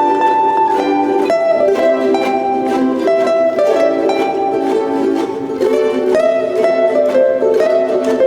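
Ukulele ensemble playing a Hawaiian tune: many ukuleles strumming chords together under a plucked melody line, at a steady beat.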